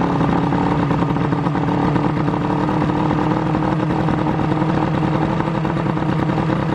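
Johnson outboard motor running steadily at a fast idle, which the owner puts down to it running out of the water.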